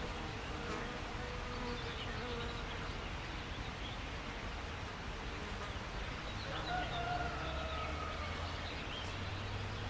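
Outdoor nature ambience with an insect buzzing close by, its drone wavering in pitch, over a steady background hiss and a few faint bird chirps.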